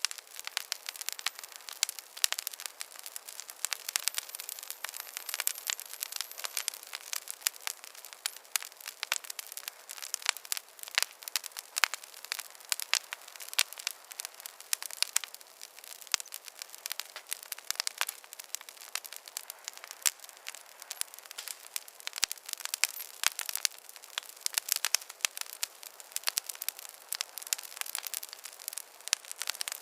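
Wood fire crackling in a fireplace: dense, irregular sharp pops and snaps over a soft hiss, with no low rumble.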